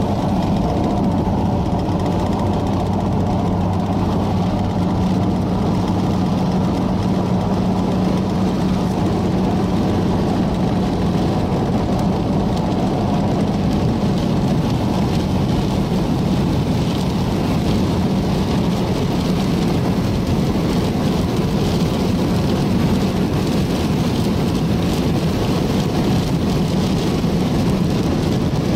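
Car driving, with a steady engine hum and road noise heard from inside the cabin.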